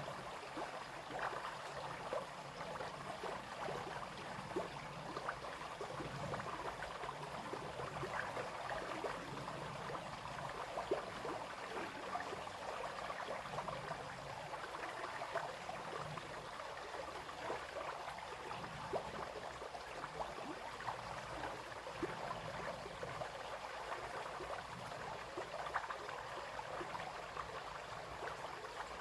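A brook flowing and splashing steadily over stones, with many small splashes and gurgles.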